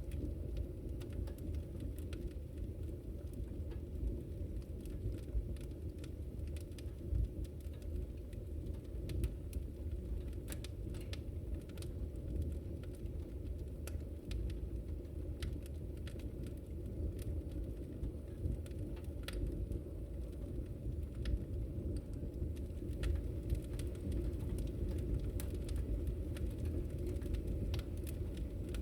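Wood fire in a fireplace crackling: frequent sharp pops and snaps at irregular intervals over a steady low rumble of the flames.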